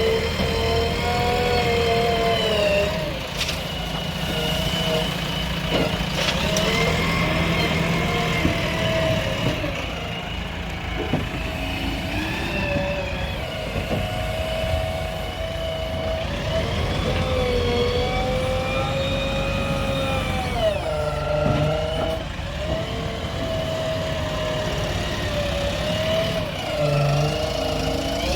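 Diesel engine of heavy loading machinery working, its pitch rising and falling every few seconds as it is revved under load.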